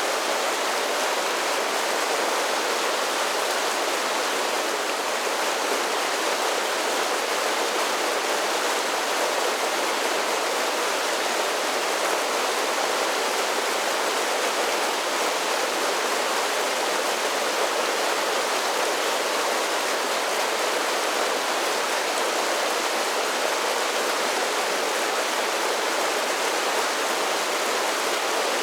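A mountain creek running over a series of small falls: steady, even rushing and splashing of water.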